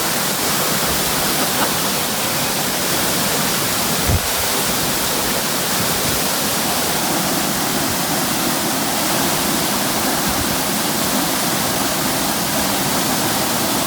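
Steady, loud rush of a waterfall's falling water, with a single brief low thump about four seconds in.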